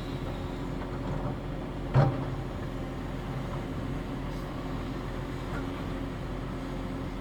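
Heavy diesel machinery running steadily as an excavator loads topsoil into dump trucks, with one sharp thud about two seconds in.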